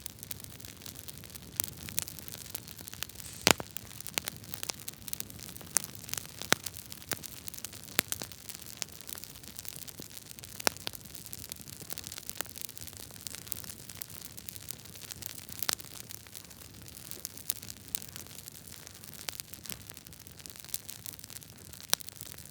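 Wood fire burning in a fireplace: a steady hiss with frequent sharp crackles and pops from the logs, the loudest pop about three and a half seconds in.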